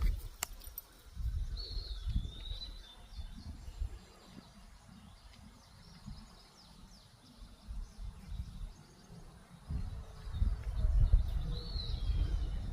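A bird gives two short calls that each slide down in pitch, about a second and a half in and again near the end, over uneven bursts of low rumbling on the microphone.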